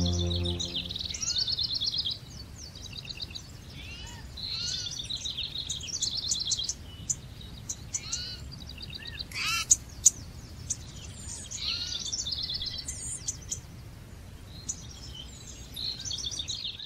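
Several small birds singing and chirping in quick high trills and short downward-sweeping calls, with two louder sharp notes about ten seconds in, over a faint steady background hiss. A held low musical drone fades out about a second in.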